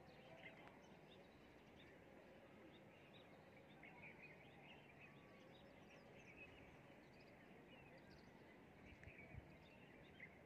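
Near silence: faint outdoor background with small birds chirping briefly now and then.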